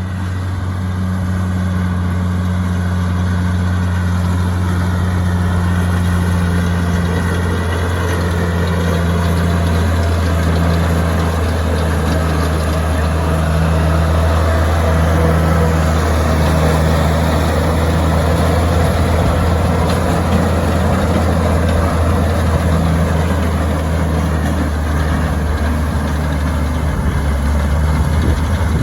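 Oliver tractor engine running steadily.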